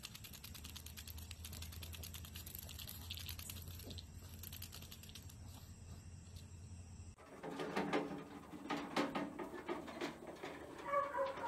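A quiet low hum with faint ticking. About seven seconds in it changes abruptly to louder outdoor sound with short, repeated bird calls, chicken-like clucks among them.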